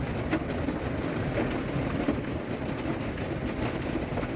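Thunderstorm heard from inside a van: a steady low rumble of thunder under a hiss of rain on the roof.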